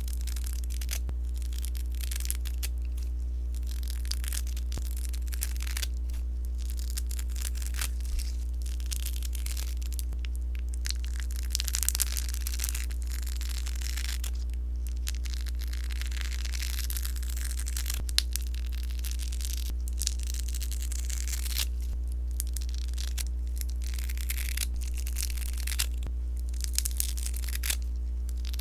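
Crackling sponge slime being squeezed and worked by hand: on-and-off crackling and rustling with scattered sharp little pops, over a steady low hum.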